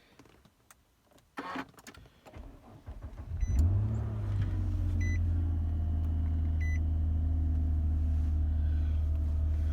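2009 Nissan Maxima's 3.5-litre V6 on a winter cold start: it cranks for about a second, catches with a quick rev flare, then settles into a steady idle, starting without trouble. Two short electronic dashboard chimes sound soon after it starts.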